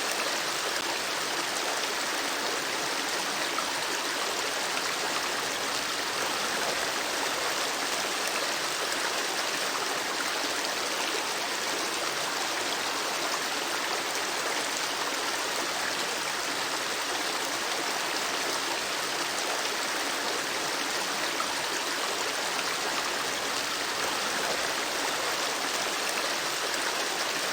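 Steady rush of a flowing river or stream: an even wash of water noise that doesn't change.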